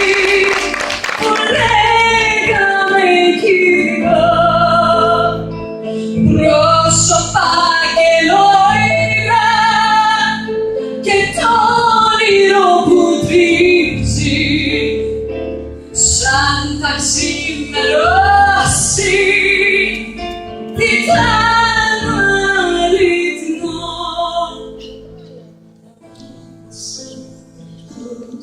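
Live band music with a lead vocalist singing a slow, wavering melody over the accompaniment. Near the end the music drops away to a quiet passage.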